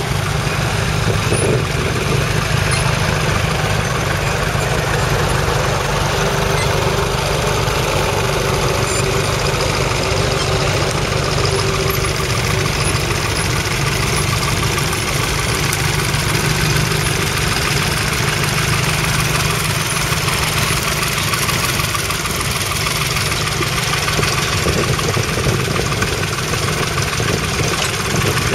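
Nuffield Universal 3 tractor's three-cylinder diesel engine running steadily.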